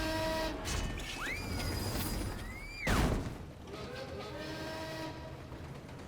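Cartoon sound effects over short musical notes: two swooping whistles that rise and fall, then a sharp crashing hit about three seconds in, followed by more short musical notes.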